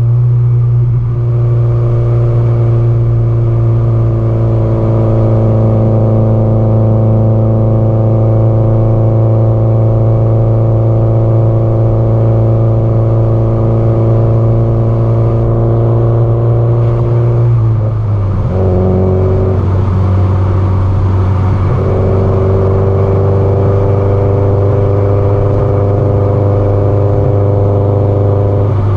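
Subaru Impreza GDB-E's turbocharged flat-four exhaust note while cruising at steady engine speed. About 18 seconds in the note breaks and drops, as at a gear change, then settles and slowly climbs again.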